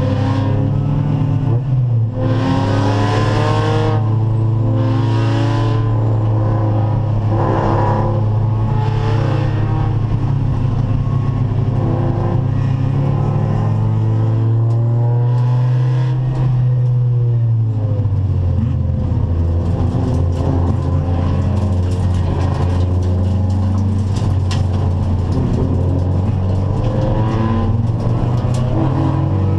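Acura Integra race car's four-cylinder VTEC engine running hard at racing speed. Its pitch steps down sharply about two seconds in and again near eighteen seconds, as at gear changes or lifts for corners.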